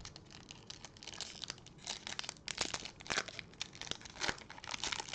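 Foil wrapper of a baseball card pack being torn open and crinkled, a dense irregular crackle.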